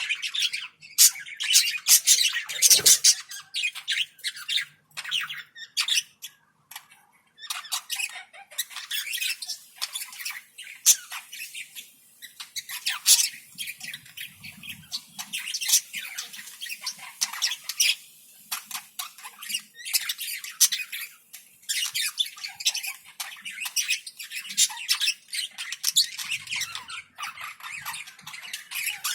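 Budgerigars chattering: a dense run of fast, high chirps and squawks with brief lulls, and one low thud a few seconds in.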